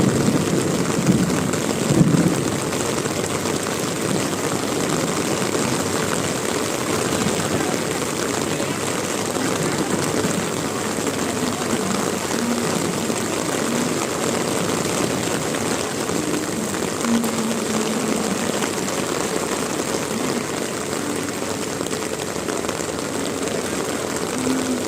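Heavy rain falling, a steady, loud hiss.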